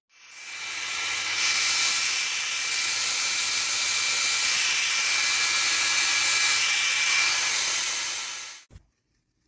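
A steady hissing rush with a faint whine in it, building over the first second and cutting off shortly before the end.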